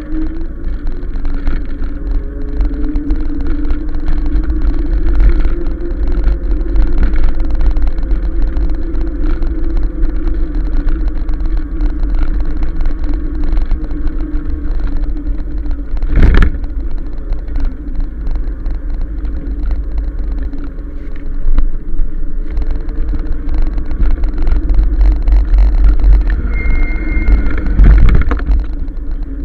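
Riding a 1000-watt electric bike: the motor's whine rises and falls slowly with speed over heavy wind rumble on the microphone. A sharp knock comes about 16 seconds in, and a brief high squeal comes near the end.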